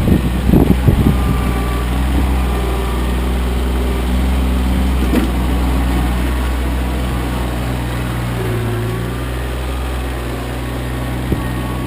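Kioti CK25 compact tractor's three-cylinder diesel engine running steadily, with a few sharp knocks in the first second and a brief change in engine note about three-quarters of the way through.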